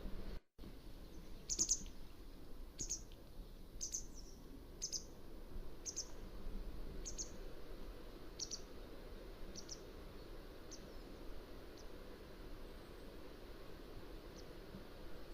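Mountain wagtail calling: a series of short, high, sharp chirps, about one a second, growing fainter toward the end, over faint steady background noise. A brief dropout to silence comes about half a second in.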